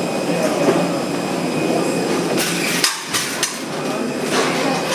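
A few sharp knocks and clacks, bunched together in the middle, over a steady background hum.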